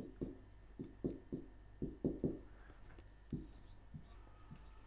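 Quiet room with a low steady hum and a scattering of faint, soft taps, about two or three a second at irregular intervals.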